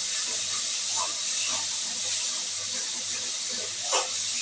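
Wet ground masala paste sizzling steadily in hot oil in a kadhai, with a few light spatula knocks and scrapes against the pan about a second in and again near the end.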